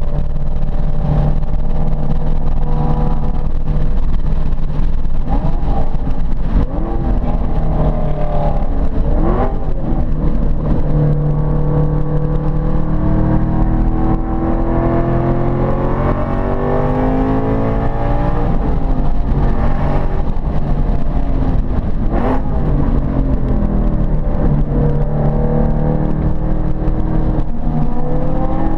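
Ford Mustang Boss 302's V8 engine running hard on track, its pitch climbing as it accelerates and dropping at shifts and lifts, several times over.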